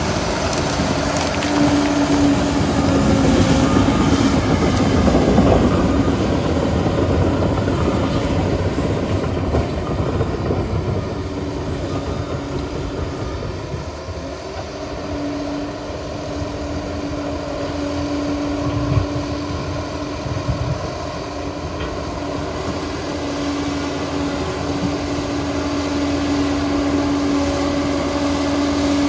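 Liebherr PR 746 crawler dozer running: a steady heavy machine drone with a whine that drops away for several seconds in the middle and then comes back.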